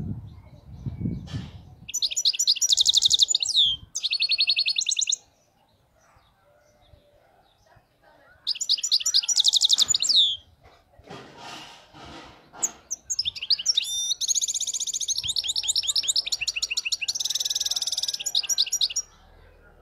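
European goldfinch singing: long phrases of fast, high twittering trills, three bouts with pauses between them, the last and longest near the end. The song is held up as faultless.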